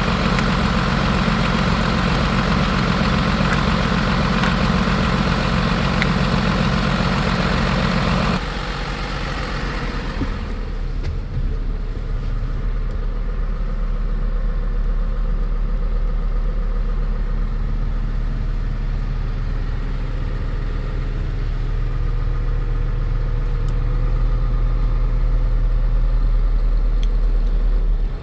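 MAN TGL 12.250 truck's six-cylinder diesel engine idling steadily. About eight seconds in, the sound abruptly turns deeper and duller, losing most of its higher clatter.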